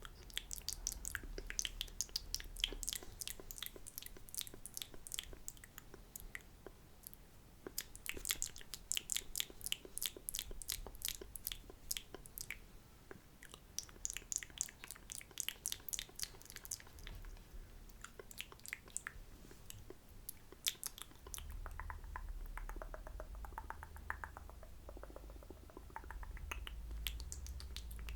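Close-miked wet ASMR mouth sounds: rapid lip and tongue clicks and smacks in clusters of a few seconds, as in spit painting. About two-thirds of the way through the clicks give way to a softer, lower sound over a low rumble.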